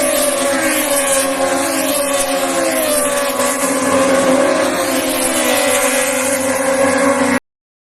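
Several racing motorcycles at high revs, their overlapping engine notes gliding and mostly falling in pitch as they pass and shift, over a wash of wind. The sound cuts off suddenly near the end.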